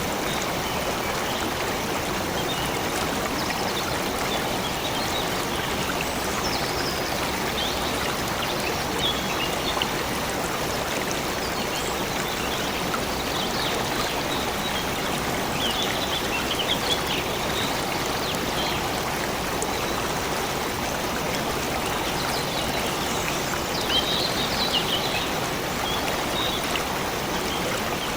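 Stream water flowing and splashing steadily, with birds chirping in short quick bursts several times over it.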